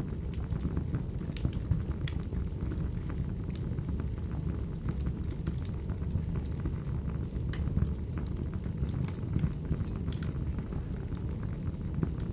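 Wood fire burning: a steady low rumble of the flames with sharp crackles and pops of the burning logs every second or two.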